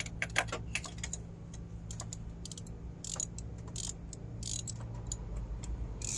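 Metal clicks and short rasping scrapes of a spark plug socket and extension as a new spark plug is worked into cylinder 5 of a V6 engine, over a steady low hum.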